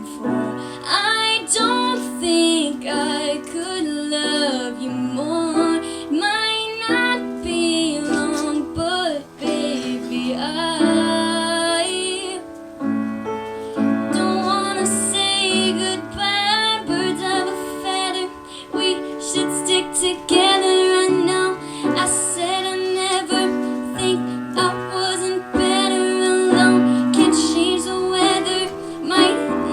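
A female voice singing a slow pop song over piano accompaniment, with a short break in the vocal line about twelve seconds in.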